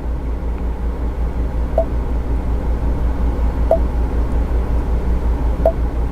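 Low, steady rumble of the Ford EcoSport's engine idling, heard inside the cabin, with a faint short tick about every two seconds.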